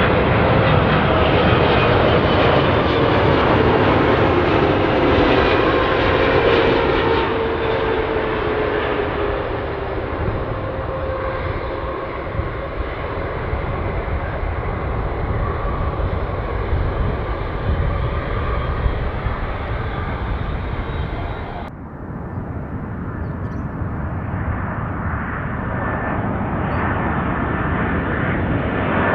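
Boeing 777 twin-jet on landing approach, its turbofans running loud with a whine gliding slightly lower over the first ten seconds, then easing. About 22 seconds in the sound cuts abruptly to a Boeing 747 freighter's four jet engines, building louder toward the end.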